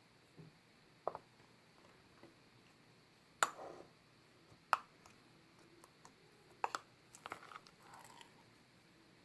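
Purple slime worked by hand: scattered short squishes and sharp sticky pops. The loudest come about three and a half and just under five seconds in, with a quick cluster between about seven and eight seconds.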